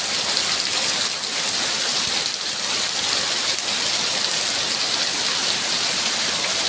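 Rain falling steadily and fairly loudly, an even wash of drops striking the ground and nearby surfaces.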